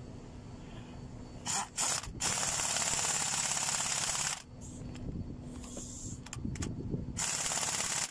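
Ratchet wrench working in spells of a second or two, tightening the rocker arm bolts on a truck engine's cylinder head.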